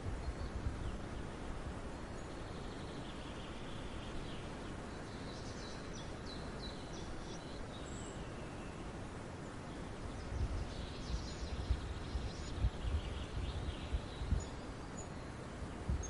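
Outdoor nature ambience: a steady hiss with faint, high small-bird chirps in two short clusters, about five seconds in and again from about ten seconds in, and scattered low thuds in the second half.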